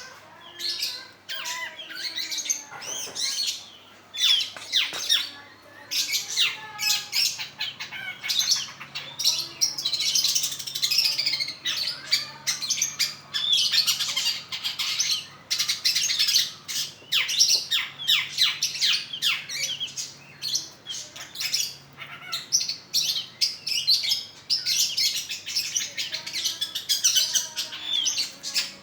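Long-tailed shrike (pentet) singing vigorously: a rapid, varied chattering song of many quick falling notes, with hardly a pause.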